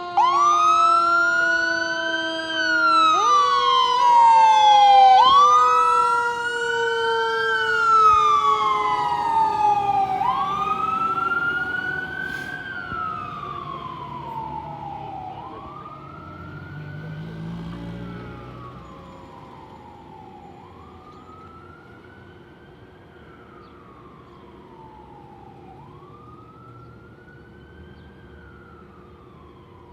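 Fire truck siren wailing in repeated cycles, each rising quickly and falling again over about two and a half seconds, with a steadier tone underneath that slowly drops in pitch. It starts loud and fades away from about twelve seconds in as the truck drives off.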